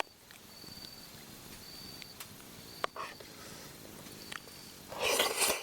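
Short, high insect chirps repeating about once a second, with a few sharp clicks of cutlery on a plate. Near the end comes a brief, loud breathy rush, as of blowing on hot food.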